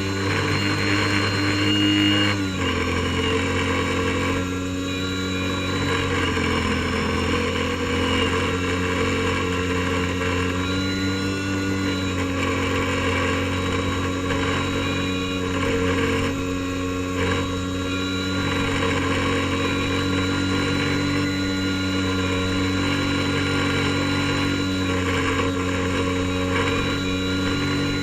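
Airboat engine and propeller running at a steady speed, dropping slightly in pitch about two and a half seconds in as the throttle eases, then holding steady.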